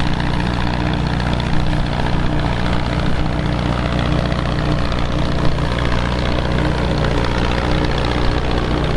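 A heavy engine running steadily at an even speed.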